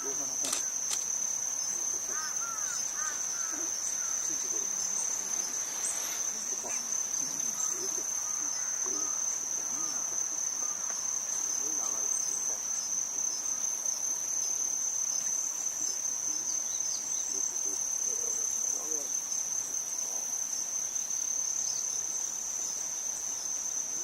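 Insects trilling: one steady, unbroken high-pitched tone that holds at the same pitch throughout.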